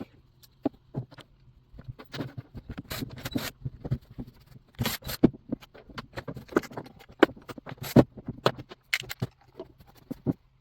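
Irregular clicking, knocking and scraping of hand tools and small metal and plastic parts as a STIHL 019 chainsaw is taken apart, with a few louder knocks around three, five and eight seconds in.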